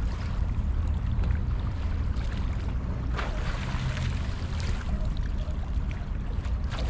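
Wind rumbling on the microphone over the wash of sea waves at the shore, with a louder surge of water about three seconds in and again near the end.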